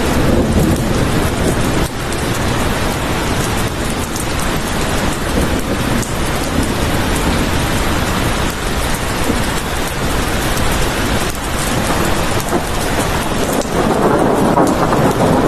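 Steady heavy rain hissing, with a low rumble of thunder underneath that swells near the end.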